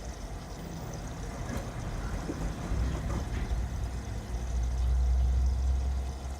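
LG Tromm WD-CR101C front-loading drum washing machine running mid-cycle: a steady low motor hum from the turning drum. The hum grows louder a little past four seconds in and eases near the end.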